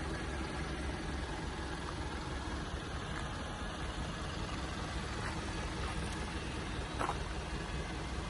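Isuzu Forward box van's 3.0-litre diesel engine idling steadily, with one brief click about seven seconds in.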